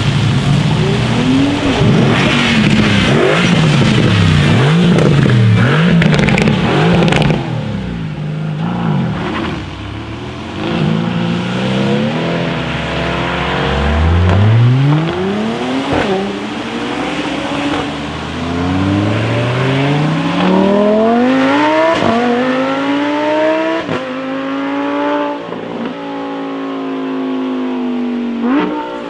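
Mercedes-AMG GT R's twin-turbo V8 revved up and down several times, then accelerating hard through the gears, its pitch climbing and dropping sharply at each upshift.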